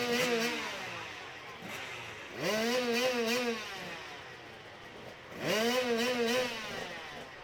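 Motorcycle engine revved in place three times, about three seconds apart: each time the pitch sweeps quickly up and holds near the top, slightly wavering, for about a second before dropping back.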